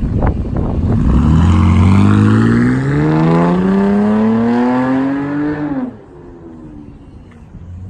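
2019 Dodge Durango 3.6-litre V6 with chambered exhaust, H pipe and deleted rear mufflers, accelerating with its exhaust note rising steadily in pitch for about four seconds, then dropping off sharply and going much quieter about six seconds in.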